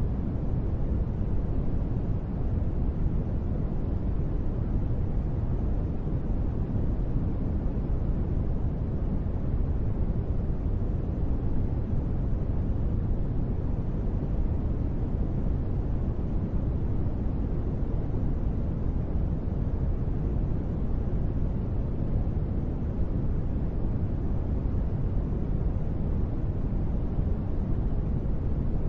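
Steady, unchanging sleep-track white noise, billed as gentle rain, with its weight in a deep low rumble and little high hiss.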